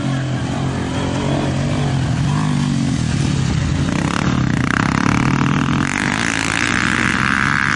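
Motorcycle engine running steadily at speed, with a higher, rougher sound joining about four seconds in.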